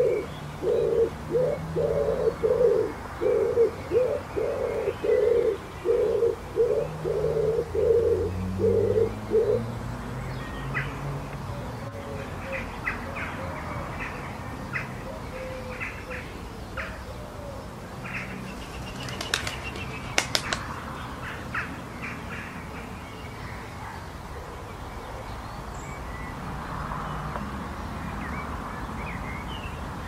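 Early-morning birdsong: a bird repeats a low hooting note about twice a second for the first ten seconds, then short higher chirps come scattered through the middle, with a few sharp clicks around twenty seconds in, over a steady outdoor background hiss.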